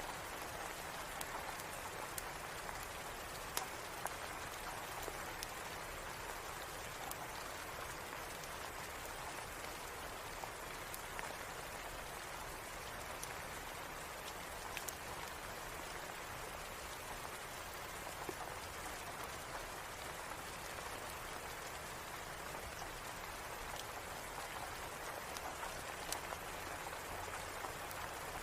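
Steady rain falling, an even hiss, with scattered sharp ticks throughout.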